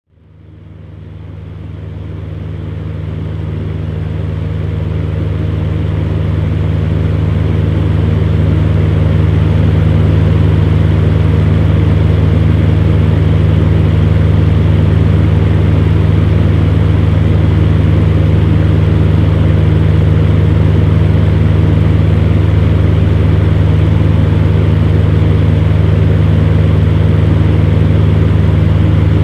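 Electric fan heater running steadily: a deep motor hum under an even rush of blown air, fading in over the first several seconds.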